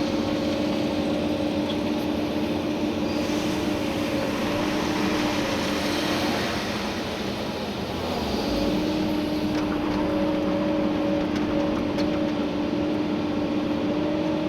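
Komatsu PC290-11 excavator's diesel engine and hydraulics running under digging work, heard from inside the cab. A steady hum fades out about six seconds in and comes back roughly two seconds later.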